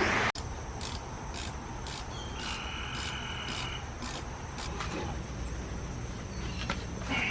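Insects chirping in an even rhythm, about two short chirps a second, over a low steady background, with a brief steady tone a little before the middle.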